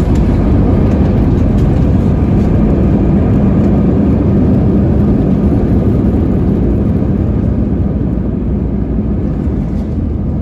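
Inside an Airbus A320 cabin during landing: a loud, steady rumble of engine and airflow noise, easing off gradually over the last few seconds as the jet slows.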